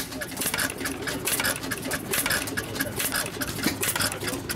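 St Marys gearless stationary engine running, with a quick, even clatter of repeated clicks from its moving parts.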